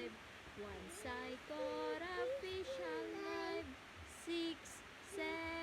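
A woman and a toddler singing a nursery rhyme together, in held and gliding sung notes with the words not clearly made out.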